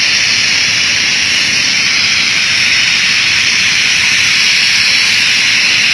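A steady, loud hiss, mostly high-pitched, holding unchanged throughout.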